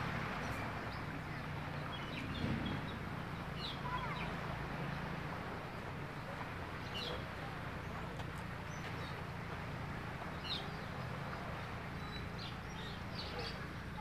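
Birds chirping: short high calls, one to a few at a time every couple of seconds, over a steady outdoor hiss. A low hum fades out after about five seconds.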